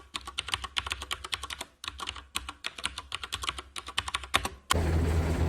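Rapid clicking of computer keyboard typing, with a brief pause about two seconds in. Near the end it cuts off abruptly into a steady low hum with noise.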